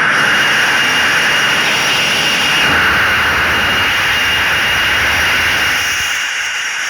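Airbus A319-132's IAE V2500 turbofan engines at takeoff thrust: a loud, steady jet roar with a high fan whine over it, easing slightly near the end.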